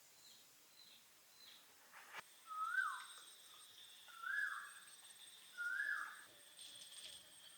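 A bird calling in the forest: three clear whistled notes, each sliding up and then dropping, about a second and a half apart, over a faint steady high-pitched whine.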